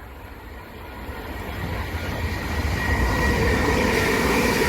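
Southeastern Class 375 Electrostar electric multiple unit approaching and passing. Its noise grows over the first three seconds and then holds steady, with a low rumble and a few steady whining tones.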